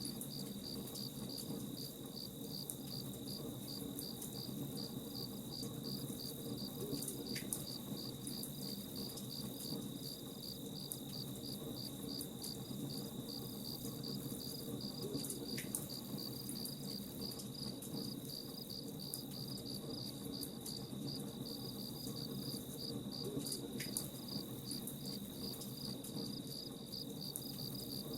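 Crickets chirping in a steady, evenly pulsing rhythm over the low hiss and sharp, scattered crackles of a campfire.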